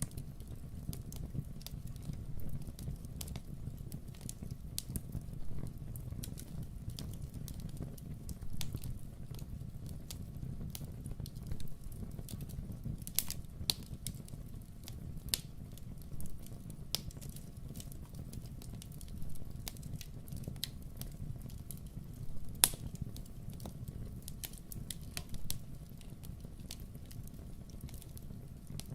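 Wood fire crackling in a fireplace: irregular sharp pops and snaps over a steady low rumble, with one louder pop about three quarters of the way through.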